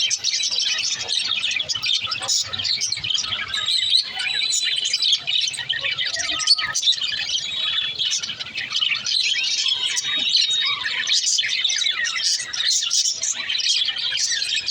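Several small pet parrots chattering and chirping without a break, a dense, overlapping warble of high chirps.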